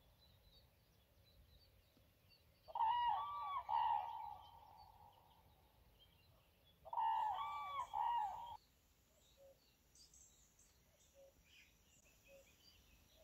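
Two loud, pitched bird calls, each about a second and a half long, about three and seven seconds in, over faint small-bird chirping.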